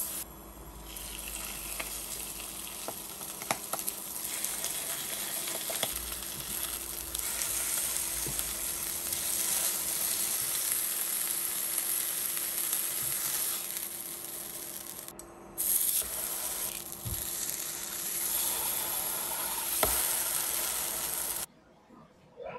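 Chicken frying in oil in a nonstick frying pan: a steady, crackling sizzle that breaks off briefly once and stops suddenly near the end.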